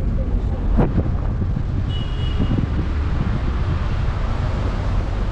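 Road noise and wind from inside a moving taxi: a steady low rumble with wind buffeting the microphone. A single knock about a second in, and a short high tone around two seconds in.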